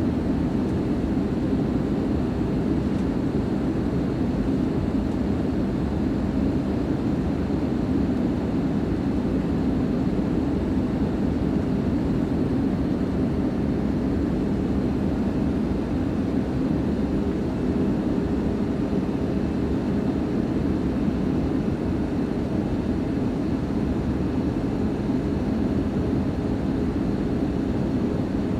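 Steady cabin drone of an Airbus A320 in its descent toward landing: a continuous low rush of airflow mixed with the hum of its IAE V2527-A5 turbofan engines, holding level and pitch throughout.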